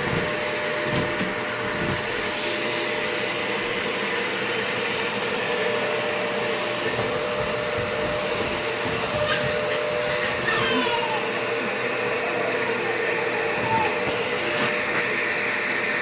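Vacuum cleaner running steadily, its motor drone carrying one held tone.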